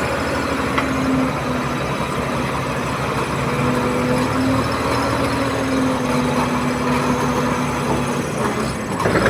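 Bulldozer's diesel engine running steadily, its tone wavering slightly in pitch.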